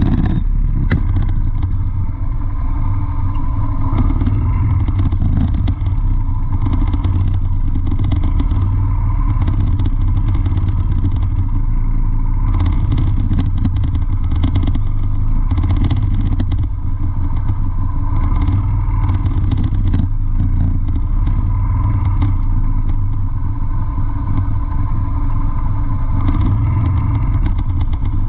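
Vehicle engine running steadily with a continuous deep rumble and some light clatter.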